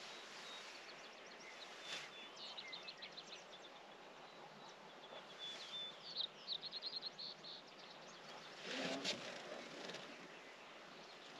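Faint songbird singing: two quick runs of high, rapidly repeated notes a few seconds apart, with a short held high note between them. A brief soft noise comes about nine seconds in.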